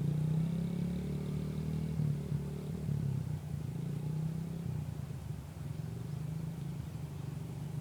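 Honda CRF50's small four-stroke single-cylinder engine running steadily at low revs, slowly getting fainter.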